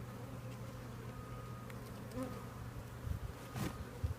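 Honeybees buzzing steadily in a low hum around an open hive, with a couple of soft low thuds about three seconds in.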